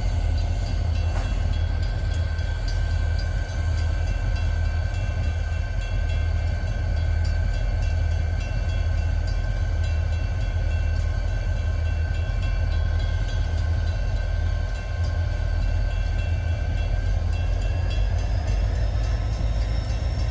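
Diesel freight locomotive running nearby with a steady low engine rumble and a whine that rises slightly in pitch near the end.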